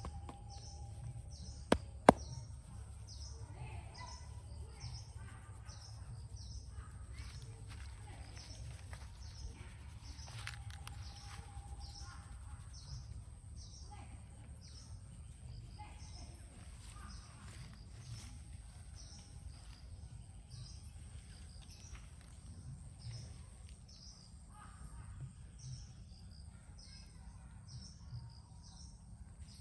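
A bird calling over and over, short falling chirps about once a second, over a steady low rumble. Two sharp cracks about two seconds in.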